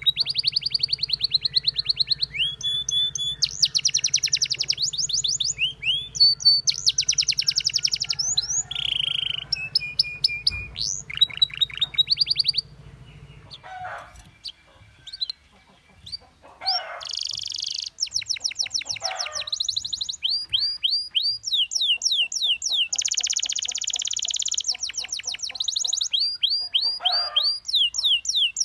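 Domestic canary singing in fast trilled phrases of rapidly repeated high notes. The song breaks off for a few seconds about halfway through, then resumes with more rolling trills.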